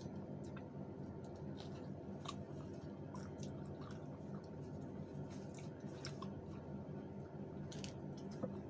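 People chewing food with their mouths close to the microphone: wet chewing and short mouth clicks scattered throughout, over a steady low hum.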